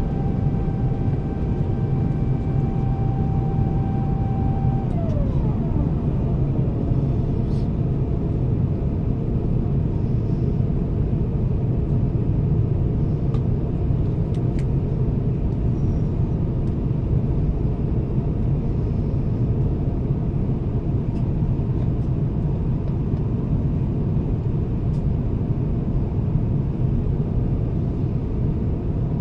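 Airliner cabin noise aboard an Airbus A350-1000 in flight: a steady low rumble of airflow and engines. A thin whine over it glides down in pitch about five seconds in.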